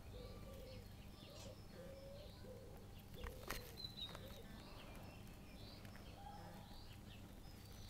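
Faint birds chirping and calling, with short repeated notes, high and low, and a couple of soft clicks about three and a half seconds in.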